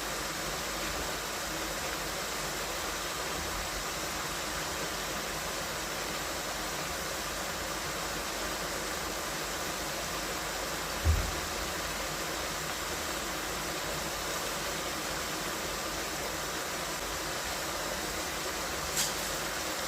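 Steady even hiss, with a single low thump about halfway through and a short click near the end.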